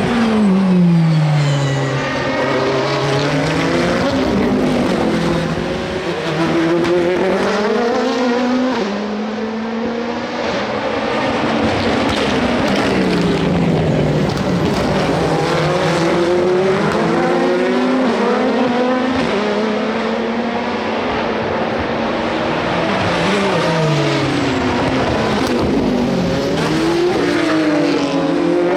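Le Mans prototype and GT endurance race cars going by one after another. Each engine's pitch drops in steps as the car brakes and downshifts, then climbs again as it accelerates away, with cars sometimes overlapping.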